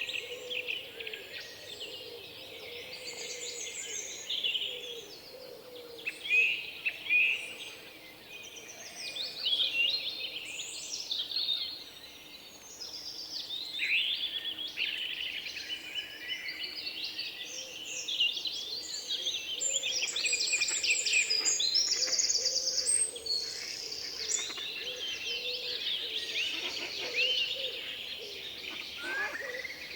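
Several songbirds singing and chirping at once, in overlapping phrases, with a fast high trill about twenty seconds in.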